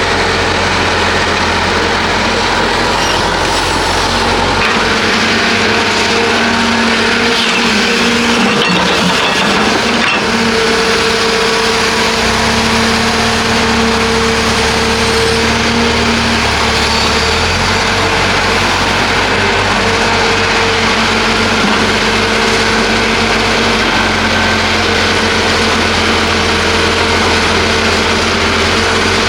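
Heavy diesel excavator running steadily under working load, with a constant whine from its engine and hydraulics. The pitch dips briefly about a third of the way in, and the low rumble shifts as the load changes.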